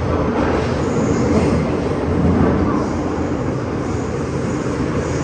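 MTR M-Train electric multiple unit running along the line, heard from inside the car: a steady rumble of wheels on rail with a low, even motor hum.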